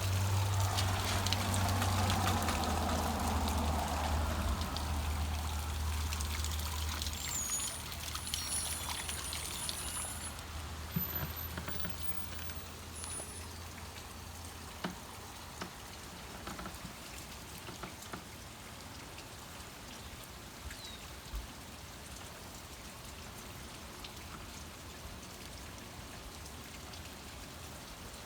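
Heavy rain falling, with water pouring and trickling. A low rumble fills the first several seconds and fades away, after which the rain settles to a steadier, quieter hiss with a few sharp drips now and then.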